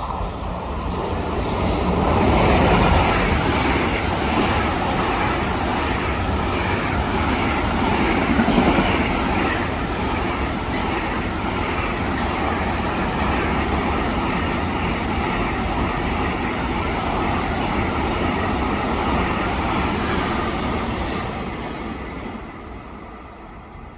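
A train passing through a station on its rails, a steady loud rumble of wheels that builds over the first couple of seconds and holds for about twenty seconds before fading out near the end. A brief high squeal comes about a second and a half in.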